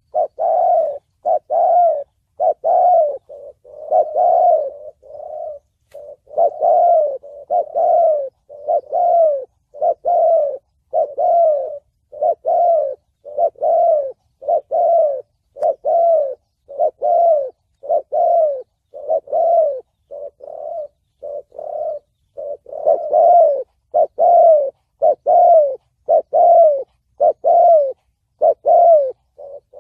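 Spotted dove cooing in the 'thổ bầu' voice, the call used to lure wild doves for trapping: a continuous run of short, low coo notes, back to back, about three notes every two seconds.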